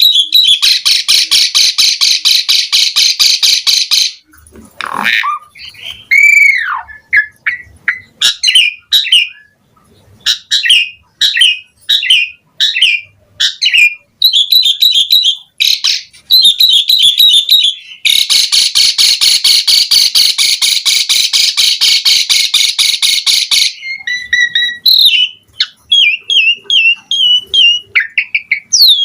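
Asian pied starling (jalak suren) singing a loud, varied song: two long runs of fast repeated notes, one at the start and one about 18 seconds in, with whistles, gliding notes, squawks and short chirps between.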